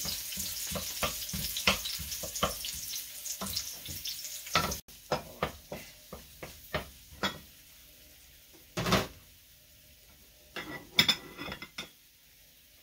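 Chopped ginger sizzling in hot olive oil in a stainless-steel wok, with the clicks and scrapes of a wooden spatula stirring it. About five seconds in the sound drops suddenly: the sizzle becomes much fainter, and only scattered knocks of the spatula on the pan remain.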